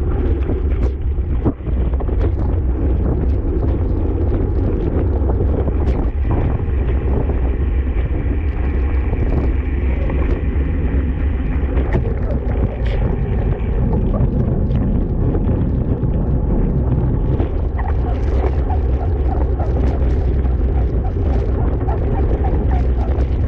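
Heavy wind noise buffeting the microphone of a camera moving at racing speed on a bicycle: a steady loud rushing rumble with scattered faint ticks.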